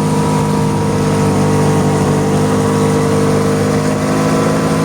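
An engine running loudly and steadily at an even speed, with a constant hum.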